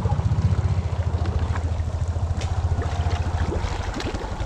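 Honda Rancher ATV's single-cylinder four-stroke engine running steadily at low speed with a fast low pulse, with water sloshing and splashing around the quad in deep creek water.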